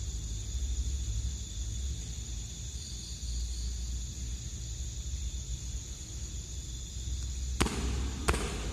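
Steady high-pitched chirring of night insects over a low rumble, with two sharp knocks about a second apart near the end.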